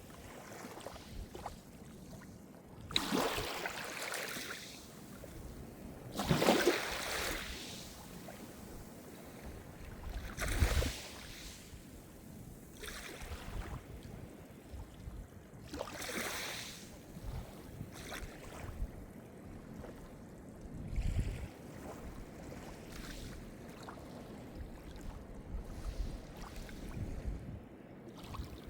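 Calm sea surf: small waves breaking and washing in one after another, each a swelling rush of water that fades over a second or two. About five louder surges stand out above a steady low wash.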